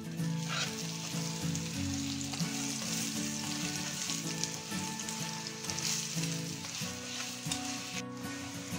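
Stuffed mooli paratha frying on a flat griddle (tawa), sizzling steadily.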